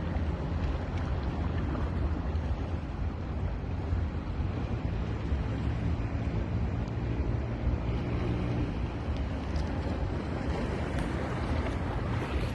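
Sea waves washing onto a beach in a continuous rush of surf, with a heavy low rumble of wind on the microphone.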